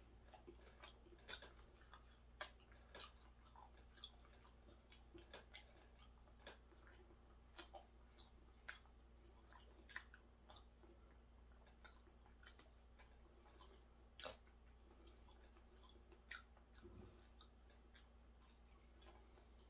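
Faint chewing of hairtail fish, heard as scattered soft mouth clicks and smacks at an uneven pace, over a faint steady low hum.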